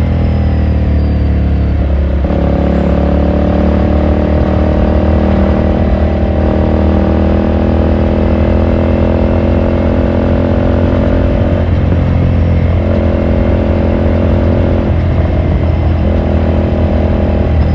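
Ducati Scrambler Sixty2's 399 cc air-cooled V-twin running on the road under steady throttle, its note breaking briefly about two seconds in and a few times near the end, as at gear changes.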